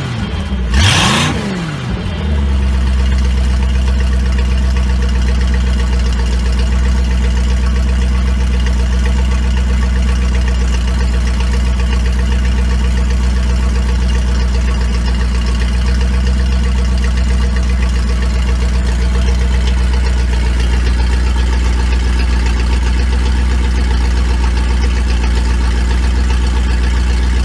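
Mercury Marine 5.7-litre V8 sterndrive engine running for the first time in over 20 years: it is revved briefly about a second in, then settles into a steady idle.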